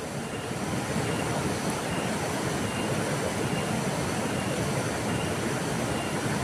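River water flowing in a steady, unbroken rush. Faint short high peeps recur about once a second above it.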